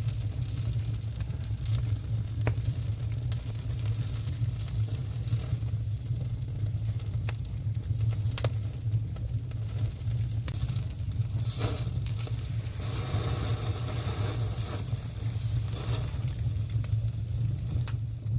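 Pork belly sizzling on a grill over a wood fire, a continuous hiss with occasional sharp pops, over a steady low rumble.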